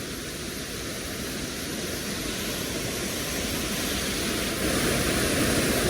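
Waterfall rushing, a steady wash of falling water that grows gradually louder, stepping up about four and a half seconds in.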